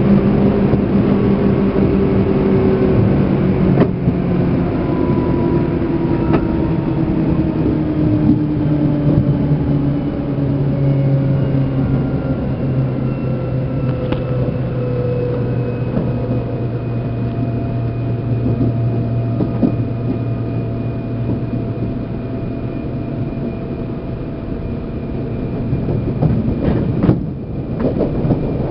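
Seibu New 2000 series electric train heard from inside motor car MoHa 2291: the traction motor and inverter whine falls steadily in pitch as the train slows, over a constant rumble of wheels on rail. The pitch changes in a step about ten seconds in.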